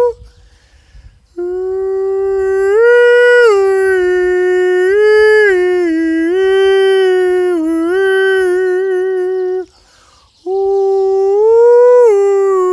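A man singing without words, holding long notes and stepping up and down between a few pitches. He breaks off briefly at the start and again near the end.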